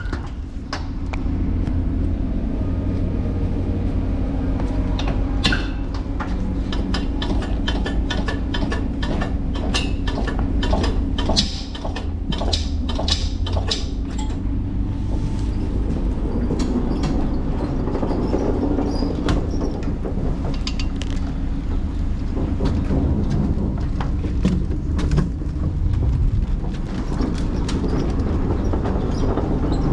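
Pallet jack being pushed and pulled over a trailer floor, its wheels and loaded forks rattling and clattering, most busily in the first half. A steady low rumble runs underneath.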